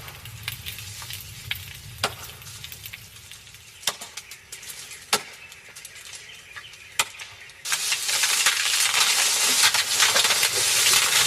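Faint background with a few sharp clicks or knocks. About two-thirds of the way in, heavy rain starts suddenly as a loud, steady hiss.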